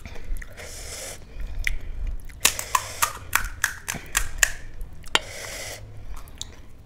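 A person eating spicy pani puri: chewing with crisp puri shells crunching, a quick run of sharp crunches in the middle.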